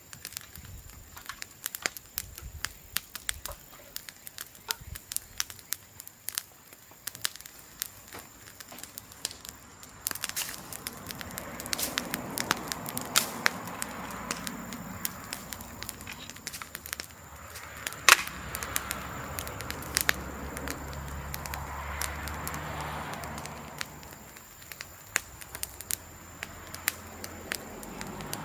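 Bamboo bonfire crackling, with many small sharp pops and one much louder crack about eighteen seconds in. From about ten seconds in, a steadier rushing sound swells under the crackle.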